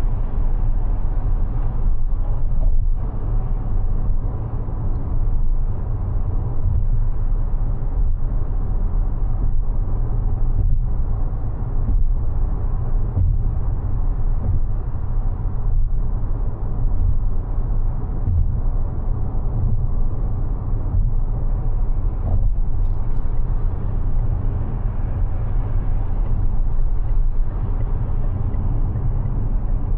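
Steady low road and tyre rumble of a Mazda 6e electric sedan being driven at an even speed.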